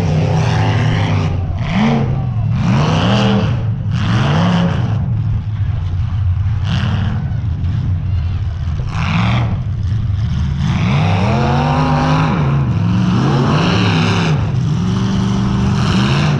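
Demolition derby car engines running loud, revving up and dropping back again and again over a steady low idle.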